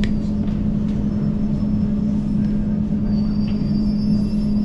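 Passenger train running, with a steady hum and a low rumble, and a single click at the start.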